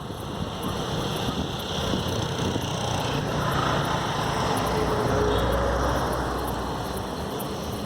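A motor vehicle passing by, its sound growing louder to a peak about five seconds in and then fading.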